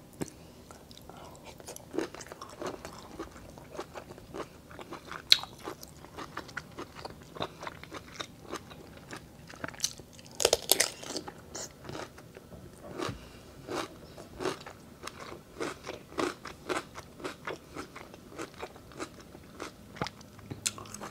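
Close-miked eating: chewing with many short crisp crunches, including crunchy bites into a raw cucumber, the loudest cluster of crunches about ten seconds in.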